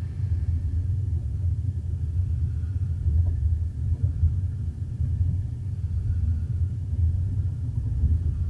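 Moving train running, a steady low rumble.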